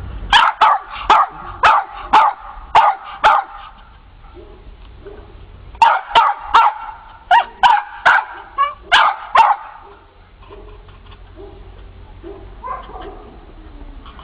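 A dog barking in two quick runs of about seven or eight sharp barks each, the second run starting about six seconds in, then only faint, quieter sounds toward the end.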